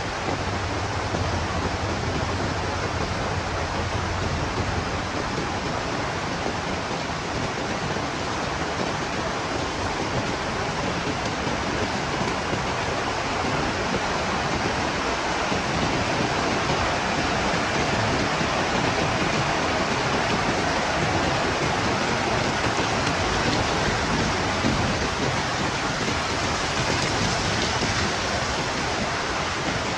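Heavy rain falling steadily, an even dense hiss, with a low rumble underneath that fades out in the first few seconds.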